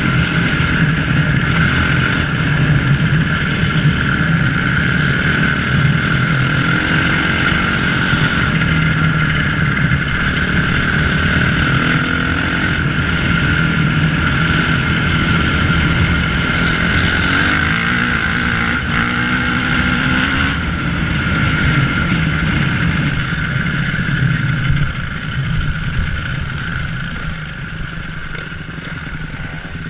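Motocross bike engine running under way, its pitch rising and falling with the throttle. It gets somewhat quieter about 25 seconds in.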